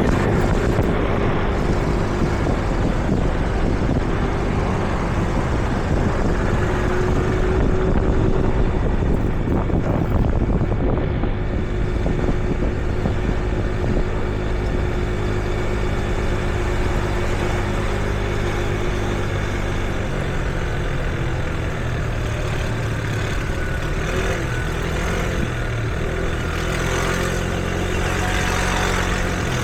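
City street traffic: car and truck engines running in a steady low rumble, with an engine idling more evenly in the second half.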